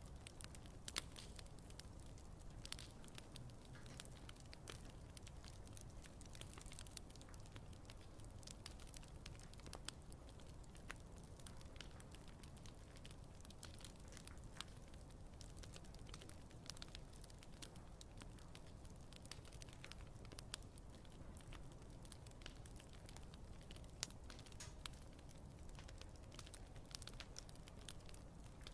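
Wood campfire burning, crackling faintly with irregular sharp pops.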